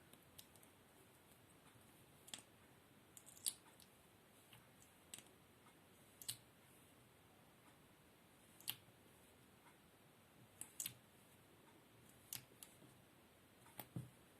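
A series of short, crisp clicks, made close to the microphone at irregular intervals of about one to two seconds, some coming in quick pairs, over a quiet steady hiss.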